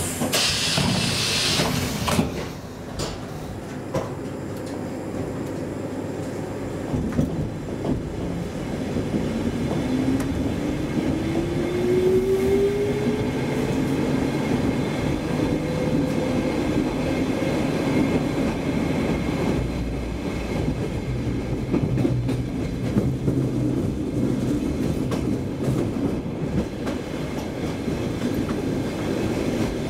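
Saltsjöbanan C10 electric commuter train heard from inside the carriage as it pulls away from a station. A short hiss comes at the start as the open doors close. Then a motor whine rises steadily in pitch as the train gathers speed, over the running noise of the wheels on the rails.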